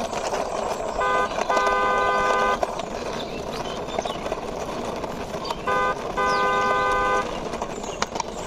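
Electronic car-horn beeps, a short beep followed by a longer one, sounding twice about five seconds apart, over a steady rushing noise.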